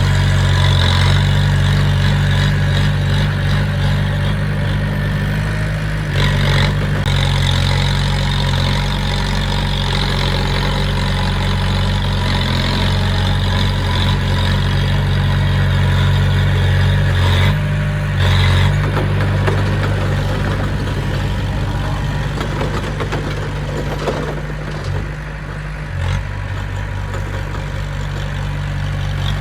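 Heavy-equipment diesel engine running steadily at an even low pitch, with brief surges about six and eighteen seconds in and a short drop in level around twenty-five seconds.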